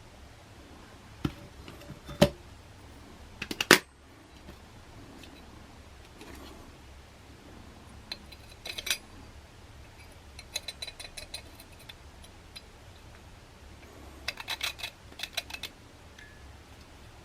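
Small metal parts being handled: a few sharp clicks and knocks in the first few seconds, then short runs of rapid light metallic clinking.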